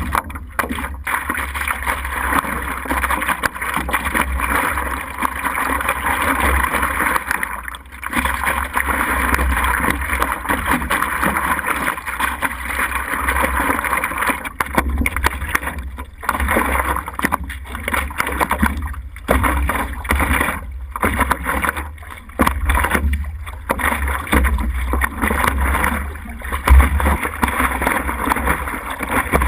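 Wind buffeting the microphone in uneven gusts of low rumble over a steady rushing noise, from a vehicle driving through a storm.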